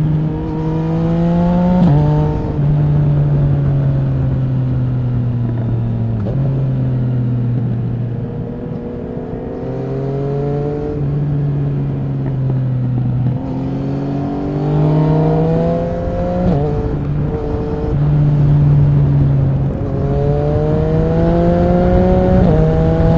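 Yamaha MT-09 SP's 847 cc inline three-cylinder engine through an Akrapovic racing exhaust, riding hard through the gears. The pitch climbs under throttle and drops abruptly at each of several shifts, and falls away twice as the rider eases off.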